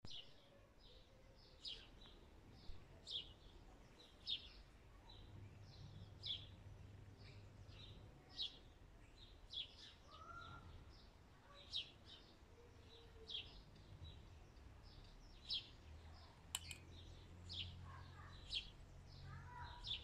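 A small bird chirping: short, high single chirps repeated about once a second, over a faint low rumble.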